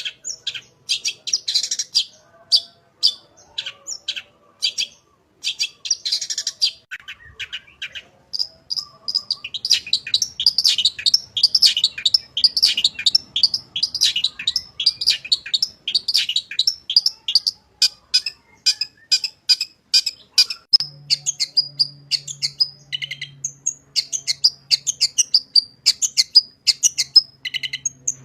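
Long-tailed shrike (cendet) singing a full, varied song packed with mimicked phrases (isian). At first it gives sharp notes in short clusters; from about nine seconds in they run together into a fast, unbroken chatter.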